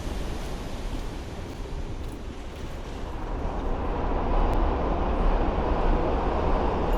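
Wind rushing over the microphone with road noise from a road bike riding on a wet road, a steady noisy rush that grows louder about halfway through.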